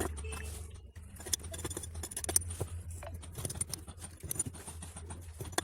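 Scattered light clicks and scrapes of hand work on a water-pipe socket joint being repaired, over a steady low hum.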